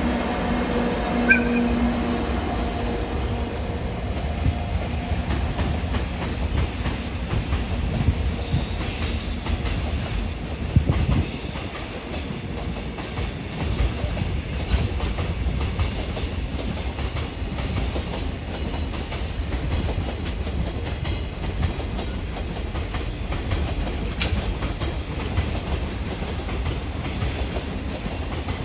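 Container freight train hauled by an EF64 electric locomotive rolling past at low speed: a steady, loud rumble of the wagons with wheels clicking over rail joints. A steady hum sounds over it in the first few seconds and fades away.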